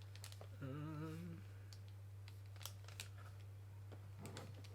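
A few soft, scattered clicks of buttons being pressed on a Bose SoundLink Flex speaker, which does not switch on; a short wavering hummed "hmm" about half a second in, over a steady low electrical hum.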